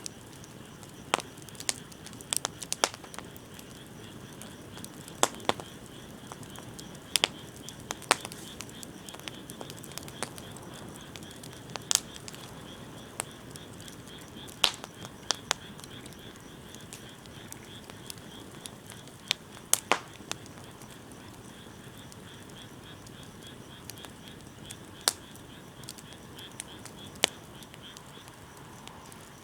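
Wood bonfire burning: a soft steady hiss broken by sharp, irregular pops and snaps, a loud one every second or few.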